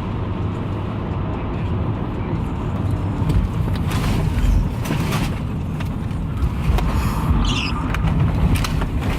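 Car driving, heard through a dashboard camera: steady low engine and road noise with a few knocks, and a brief high squeak about seven seconds in.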